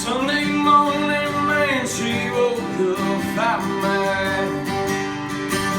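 Strummed acoustic guitar playing a country song, with a male voice singing phrases over it.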